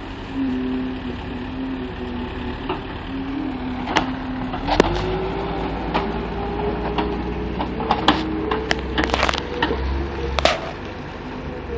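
Case 430 skid steer's diesel engine running, its pitch rising about five seconds in as it is revved up under load. A series of sharp clanks and knocks comes from the loader as it works the muck.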